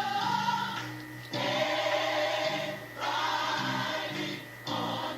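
Gospel choir singing: a held note fades out about a second in, and new phrases start at about a second and a half and again at three seconds.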